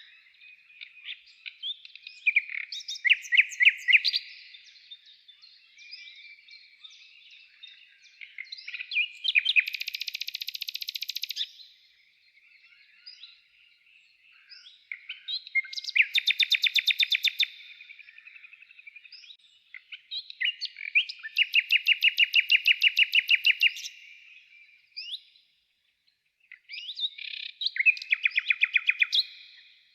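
Woodland songbirds singing: about five loud, fast trilled phrases a few seconds apart, with quieter chirps and calls between them.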